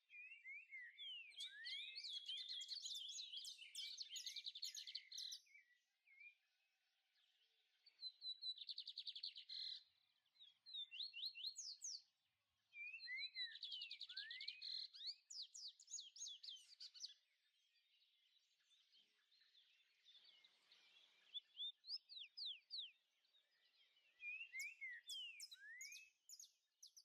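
Faint songbird singing in repeated phrases of quick, high rising chirps, with short pauses between phrases.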